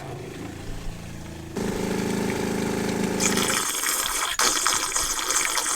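Narrowboat's freshwater pump running with the water tank empty: a steady hum that grows louder about a second and a half in and stops about two seconds later. A hiss sets in just before the hum stops and carries on. This is the pump's special noise when there is no water in the tank.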